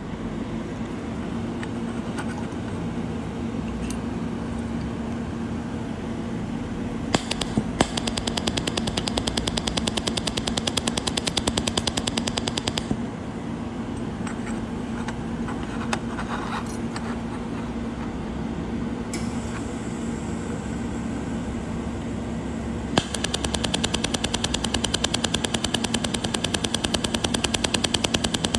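Pulsed fiber laser mold welder firing on stainless steel: a rapid, even train of sharp ticks, one per laser pulse, in two runs of several seconds, over the steady hum of the welding machine.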